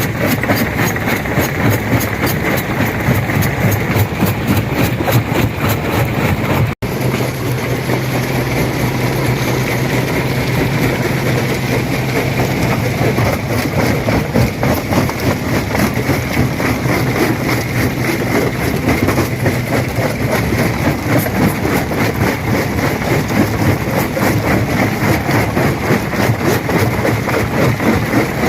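Stone crusher running and crushing rock: a steady, dense clatter and grinding of stone in the machine. It cuts out for an instant about seven seconds in, and a steady low hum runs under it after that.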